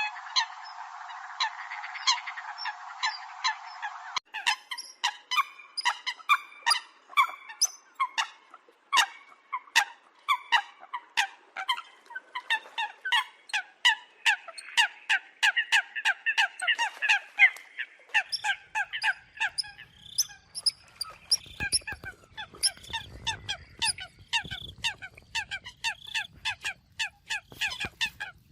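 A flock of Eurasian coots calling: short, sharp, repeated calls from several birds overlapping, several a second. About four seconds in, the sound changes abruptly to a fuller, denser stretch of calling, and a low rumble sits under the calls in the second half.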